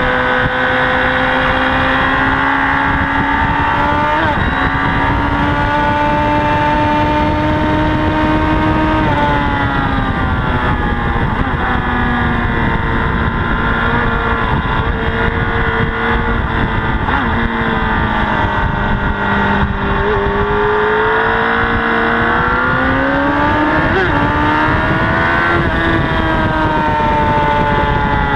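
Honda CBR1000RR's inline-four engine running hard at high revs, its pitch climbing slowly, dropping away about nine seconds in and sagging for several seconds, then climbing again about twenty seconds in before falling near the end.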